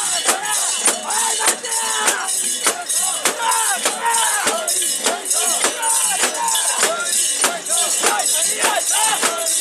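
Festival crowd carrying a mikoshi portable shrine. Its metal fittings jangle sharply about twice a second in time with the carriers' steps, over the sound of many voices chanting together.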